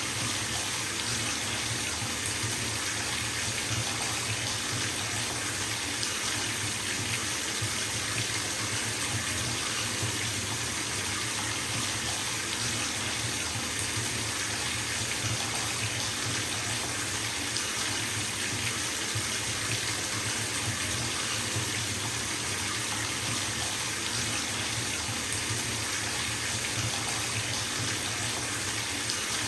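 Bathtub tap running full, water pouring into a filling tub with a steady, even rush.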